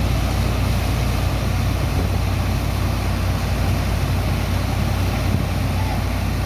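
Engine of a sand dredger's pump running steadily: a deep, even hum under a constant rushing noise.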